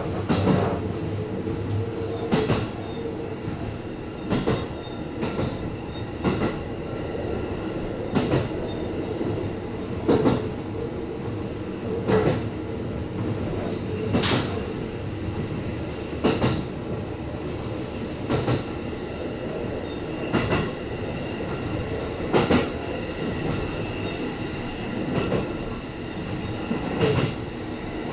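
E257 series electric train running, heard from the front of the train: a steady rumble and hum, with the clack of the wheels over rail joints about every two seconds.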